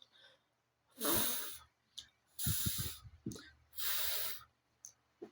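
A person's voiceless 'fff' fricative, air hissing out between upper teeth and lower lip, made three times, each lasting about half a second to a second.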